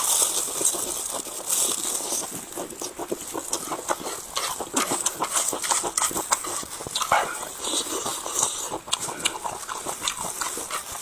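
A person chewing a mouthful of lettuce wrap close to the microphone, with many quick, irregular smacking clicks of the lips and mouth.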